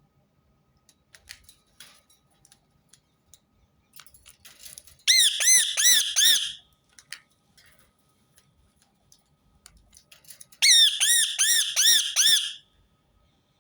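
Rose-ringed parakeet giving two bursts of rapid, repeated shrill screeching calls, one about five seconds in and one near the end.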